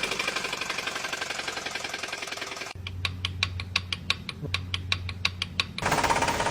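Car engine running with mechanical knocking and ticking, cut in sections. It starts as a dense, fast ticking. About three seconds in it switches abruptly to a steady low hum with a sharp tick about five or six times a second. Near the end it switches again to a louder rattle.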